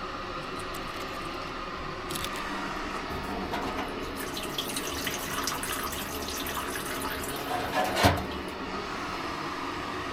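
Wort pouring into the boil kettle from the mash tun transfer, splashing over the steady hum of the brewing pump, with one sharp knock about eight seconds in.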